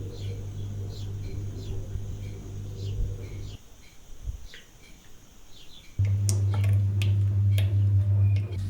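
Small birds cheeping in short, repeated, falling chirps over a steady low hum. The hum drops away for a couple of seconds mid-way, then returns along with a few sharp clicks and knocks near the end.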